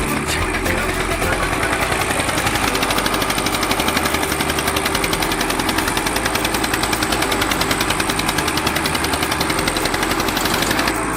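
Diesel tractor engine running hard under load in a tug-of-war pull, with a loud, steady, rapid pulsing of its exhaust beats.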